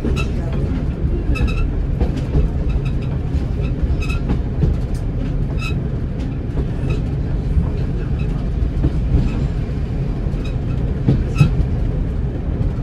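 Class 108 diesel multiple unit heard from its cab while running along the line: a steady low rumble of engine and running gear, with irregular sharp clicks and short ringing ticks from the wheels on the track.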